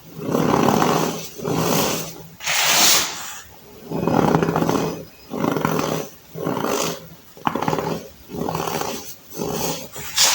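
Baking soda being crushed: a run of about a dozen crunches, each under a second long, at roughly one a second.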